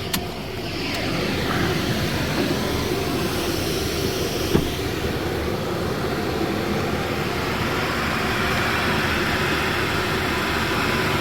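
Car wash air dryer blowers running with a steady rushing roar, swelling in over the first second and then holding level.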